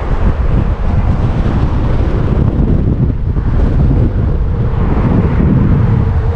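Strong gusting wind buffeting the camera microphone, a loud rumbling wind noise that rises and falls.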